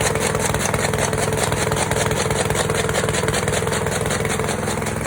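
An engine running steadily at constant speed, with a rapid, even pulsing beat.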